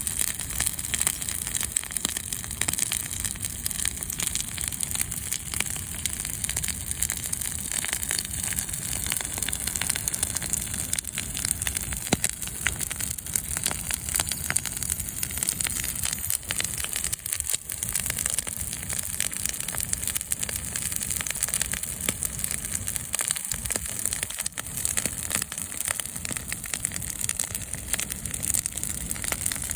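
Wood fire burning, a steady crackling with many small pops.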